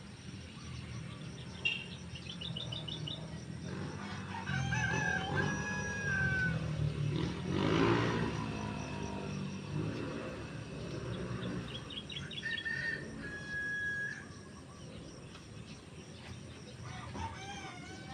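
Birds calling on and off: several drawn-out, wavering calls and quick series of short chirps, with a louder burst about eight seconds in, over a steady low hum.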